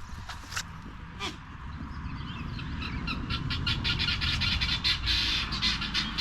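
Birds calling: a few scattered calls, then from about halfway in a fast run of short repeated calls, over a steady low rumble.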